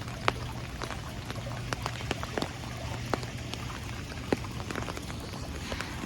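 Steady rain with a hiss, and many single drops ticking sharply at uneven intervals on nearby surfaces.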